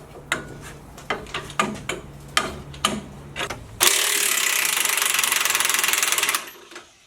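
A run of irregular sharp clicks from a hand ratchet over a low hum. About four seconds in, an impact wrench runs in one loud, rapid-hammering burst of about two and a half seconds, then stops.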